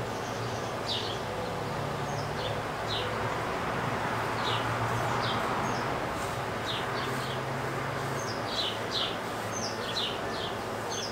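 Small birds chirping over and over, short falling chirps, several a second, over a steady outdoor hiss and a low hum.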